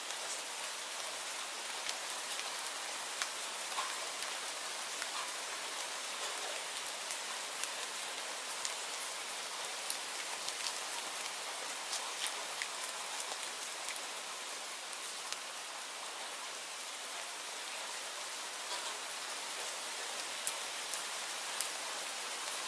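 Steady rainfall with scattered sharp ticks of individual drops.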